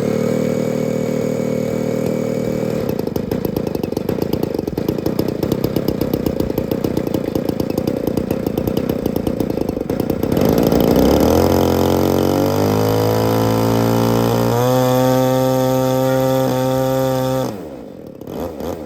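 Small gasoline two-stroke model-airplane engine of a Seagull Ultimate 20cc running steadily, then revving up in steps to a high, even note before dropping away abruptly near the end.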